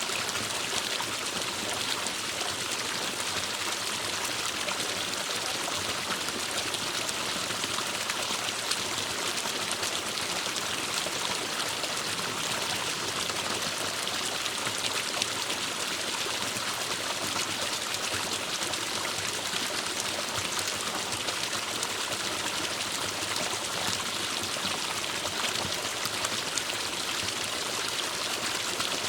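Small forest stream flowing over rocks: a steady rush of water with a bright splashing hiss.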